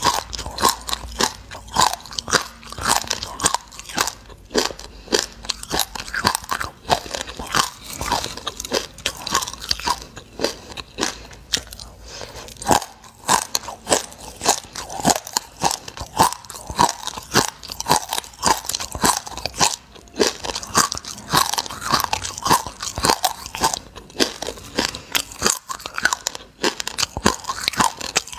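Close-miked chewing of a mouthful of black sesame seeds: quick, steady crunches, two or three a second.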